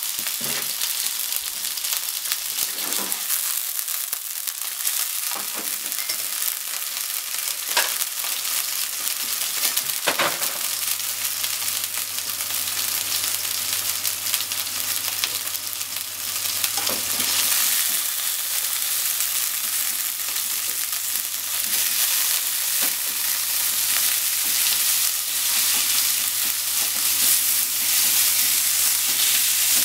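Ground chicken sizzling in sesame oil in a frying pan, with a few light knocks. The sizzling grows louder after about seventeen seconds, and near the end chopsticks stir and break up the mince in the pan.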